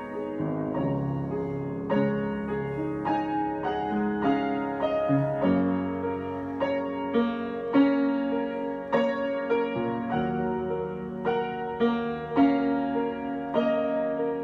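Solo piano improvisation: sustained chords in the low and middle register with melody notes struck over them, a new note or chord about every second.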